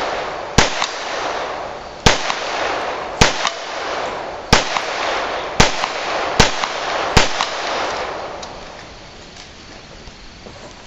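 Seven gunshots fired at an uneven pace, roughly one a second, each followed by a trailing echo; the shooting stops about seven seconds in.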